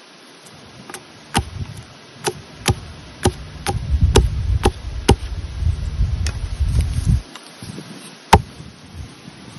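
A series of sharp knocks or strikes, about a dozen spaced unevenly over several seconds, the last one about eight seconds in being the loudest, with a low rumble beneath the middle stretch.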